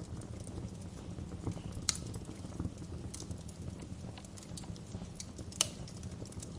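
Wood fire crackling in a fireplace: scattered sharp pops and snaps over a steady low rumble of the burning, with louder pops about two seconds in and again near the end.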